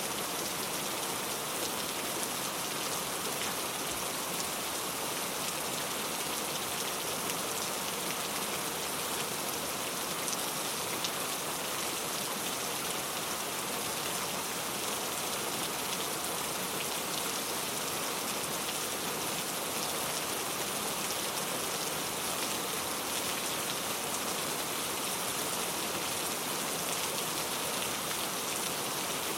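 Steady rain falling and pattering on surfaces, an even hiss of many small drop ticks with no thunder.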